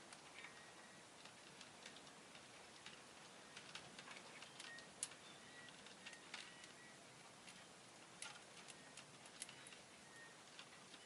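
Rosy-faced lovebird making faint, irregular small clicks and taps, with a few short, soft high peeps; one click about five seconds in is louder than the rest.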